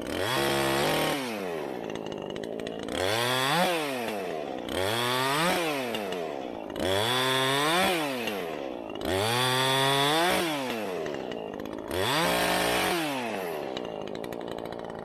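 Chainsaw engine revved hard about six times in a row, each time for a second or two, dropping back to a lower run in between.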